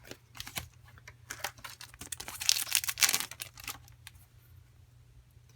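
Trading cards being handled and flicked through: a run of light clicks and taps, with a louder rustle between about two and three seconds in.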